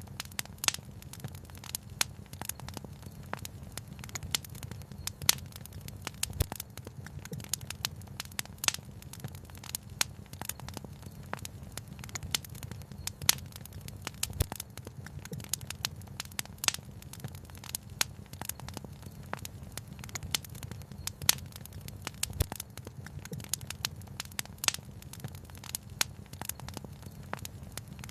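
Wood fire crackling: frequent irregular sharp pops and snaps over a low, steady rumble.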